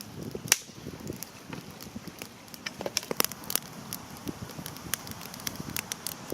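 Campfire crackling, with irregular sharp snaps over a low rumble.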